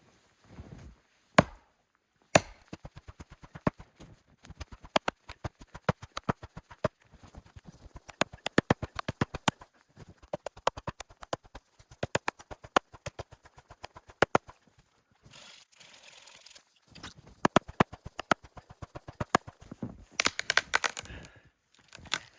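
Rapid sharp chopping knocks, several a second, in runs broken by short pauses, with a stretch of rustling noise about two thirds of the way through.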